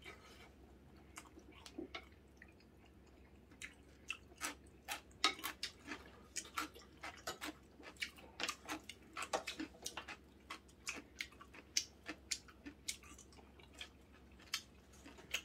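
A person chewing and eating close by: after a few quiet seconds, a run of irregular short smacking and clicking mouth sounds.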